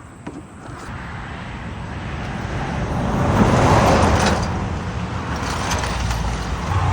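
Road vehicle noise, mostly tyre and engine rush, that swells to a peak about four seconds in and then fades somewhat.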